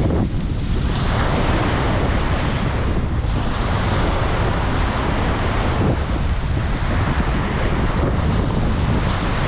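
Ocean surf breaking on a beach, a steady wash of waves with heavy wind buffeting on the microphone.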